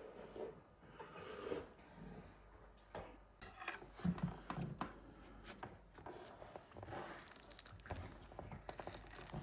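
Faint rustling and scraping handling noises with scattered soft clicks and knocks.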